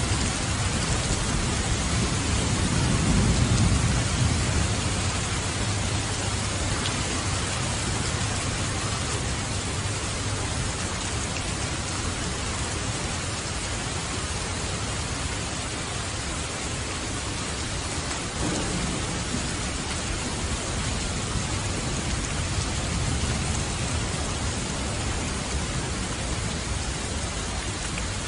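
Steady rain falling, with a low rumble of thunder that swells and fades a few seconds in.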